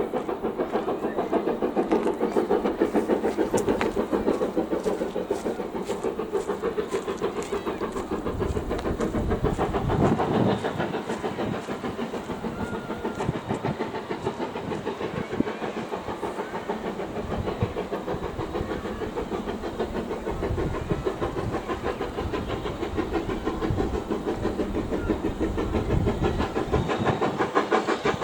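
Steam engine running with a fast, even rhythmic beat.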